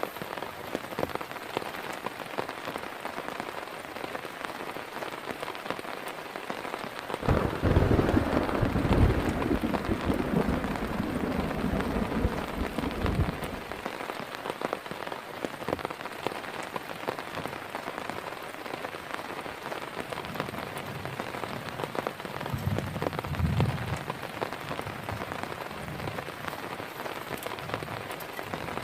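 Heavy rain falling steadily. About seven seconds in, a roll of thunder rumbles loudly for about six seconds, and a shorter, fainter rumble follows later.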